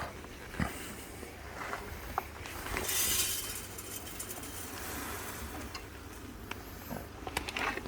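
Birdseed being poured and scooped into a bird feeder: small clicks and taps, with a hissing rattle of seed about three seconds in.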